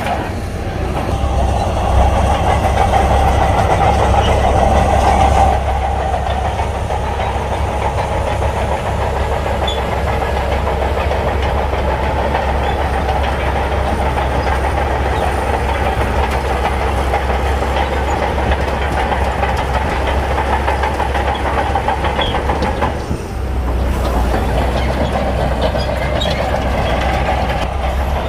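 Shantui bulldozer's diesel engine running hard with steel tracks clattering as it works sand. The engine is louder for a few seconds near the start and dips briefly about 23 seconds in.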